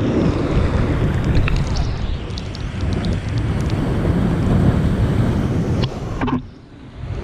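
Ocean surf surging and breaking at high tide, a deep, rough rumble with wind buffeting the microphone. The rumble drops away suddenly near the end, then starts to build again.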